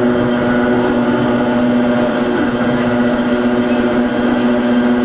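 Hakone Tozan Railway Moha 1 electric railcar No. 106, heard from on board: a steady whine with hum, holding one pitch, over a running rumble. The car runs on nose-suspended traction motors (SE121-A) in NA7 bogies.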